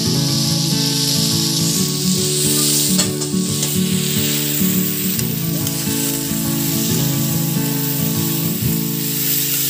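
Sliced vegetables sizzling as they fry in a metal kadai, with a spatula stirring and scraping through them near the end.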